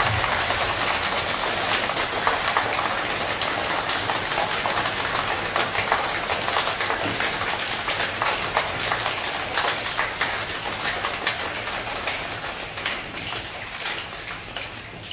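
Rain imitated with hands: a dense, crackling patter of many quick hand strikes, thinning out and growing quieter near the end.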